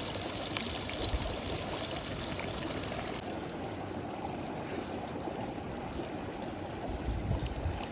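River water flowing steadily, a continuous rushing hiss. The high part of the hiss drops away about three seconds in, and a few low bumps come near the end.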